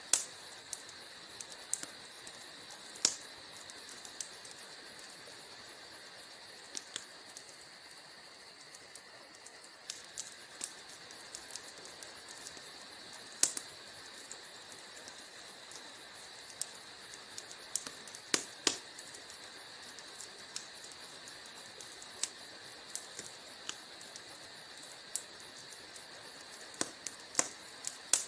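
Wood fire in a fireplace crackling: irregular sharp snaps and pops over a steady hiss, with a handful of louder pops scattered through.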